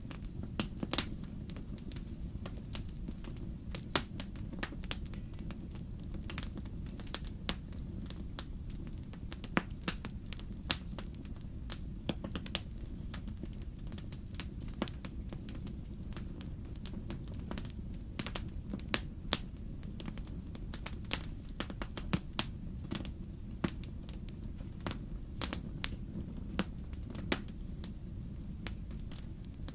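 Fire crackling in a fireplace: a steady low rumble with irregular sharp pops and snaps scattered through it.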